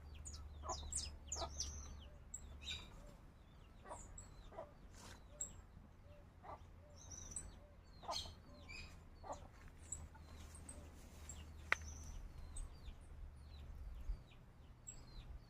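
Birds calling throughout: many short, high, falling chirps with some lower calls among them, mixed with chickens clucking. One sharp click sounds near the end.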